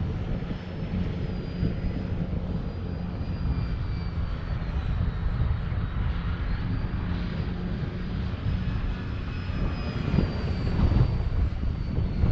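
Durafly Tundra RC plane's electric motor and propeller whining faintly as it flies, the pitch drifting up and down, under heavy gusty wind rumble on the microphone.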